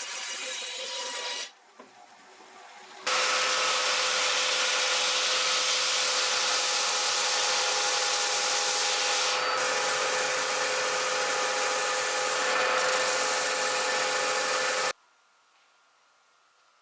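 Electric woodworking tool cutting or sanding oak, a steady motor hum under an abrasive hiss. It starts abruptly a few seconds in and cuts off near the end, after a shorter burst of similar work at the start.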